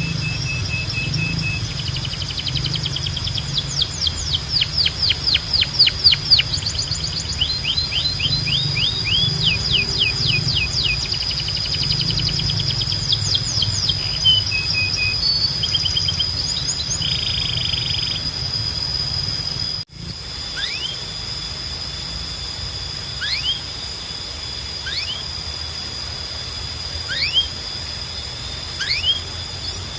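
Domestic canary singing. The first part is rapid trills of quickly repeated sweeping notes mixed with short held whistles. After an abrupt cut, about two-thirds of the way through, it becomes sparse single upward-sweeping calls every second or two. A steady high-pitched tone and a low hum sit under the song.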